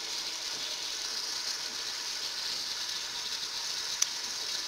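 Raw chicken pieces and fried onions sizzling in hot oil in a pressure cooker, a steady high hiss, with one sharp click about four seconds in.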